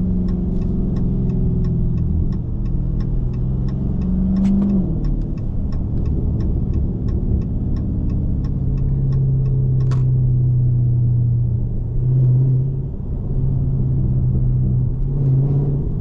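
Dodge Scat Pack's 6.4-litre HEMI V8 running through a mid-muffler-delete exhaust at a low, steady cruise; its note drops in pitch about four and a half seconds in and then holds steady. A fast, even ticking runs over it for roughly the first nine seconds.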